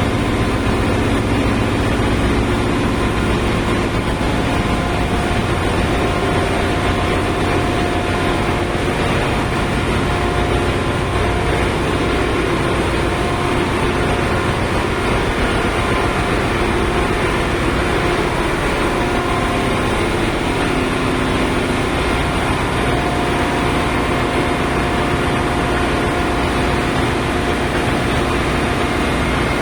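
Ship's engine room machinery running steadily: a loud, unchanging drone with a few steady hums over a dense mechanical noise.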